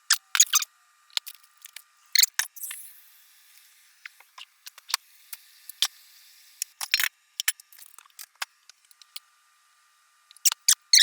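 Kitchen handling noise: scattered sharp clicks and taps of utensils and cookware, with two stretches of soft hissing, the first about two seconds in and the second near the middle.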